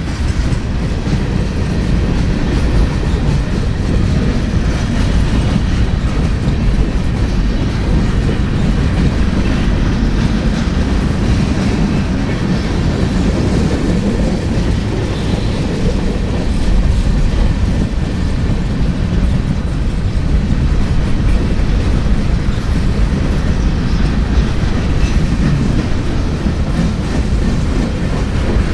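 Freight train boxcars rolling past on steel rails: a steady, loud rumble of steel wheels on the track that holds at the same level throughout.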